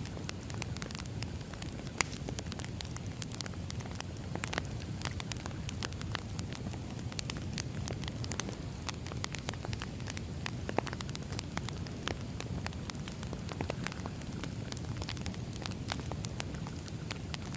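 Wood fire crackling, with frequent irregular sharp pops over a steady low rumble; one louder pop about two seconds in.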